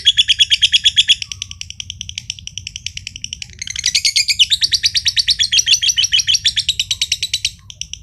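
Green (josan) lovebird in a long, fast chattering trill ('ngekek'), about ten sharp notes a second. It drops in loudness about a second in, picks up again around the middle and fades near the end.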